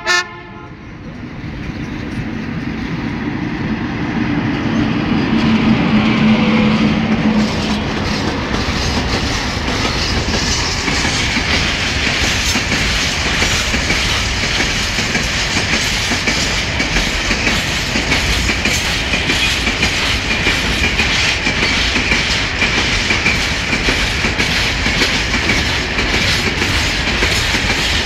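Freight train hauled by an E43000 electric locomotive passing: a horn blast cuts off right at the start, the rumble builds as the locomotive draws level with a low hum, then the wagons roll by steadily with a rhythmic clickety-clack of wheels over rail joints.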